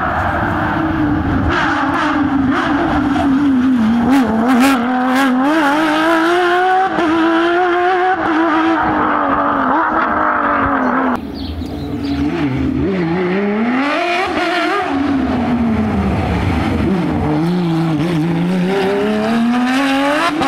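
Porsche 911 rally car's flat-six engine at full effort, revving up and dropping back again and again through gear changes and corners. The sound breaks off abruptly about eleven seconds in, then the engine picks up again with more rises and falls.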